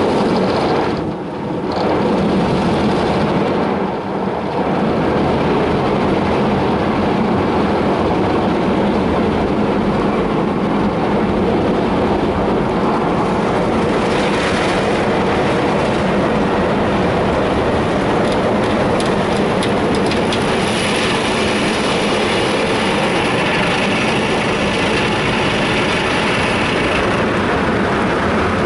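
Istobal tunnel car wash working over the car, heard from inside the cabin: a loud, steady wash of spinning hard-touch brushes with a low hum underneath. A brighter hiss joins in about twenty seconds in.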